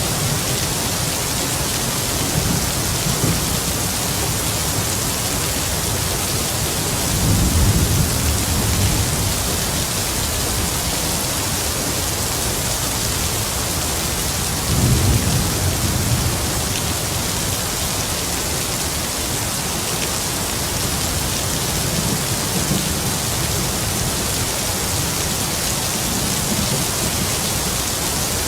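Heavy rain falling steadily, with low rumbles of distant thunder swelling about seven seconds in and again about fifteen seconds in.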